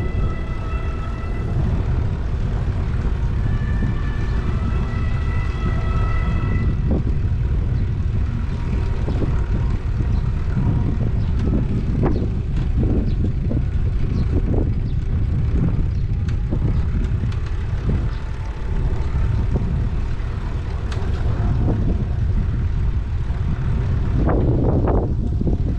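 Heavy wind noise on an action camera's microphone during a bike ride, with street traffic underneath. A short melody of stepped electronic tones plays for the first several seconds, and scattered knocks and rattles come through later, with a louder passing sound near the end.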